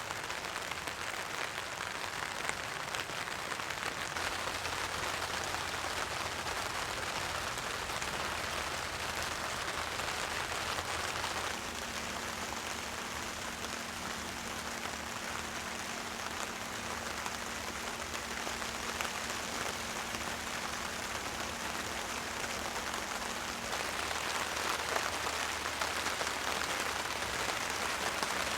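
Heavy rain falling steadily on a tarp: a dense, even hiss speckled with countless fine drop ticks.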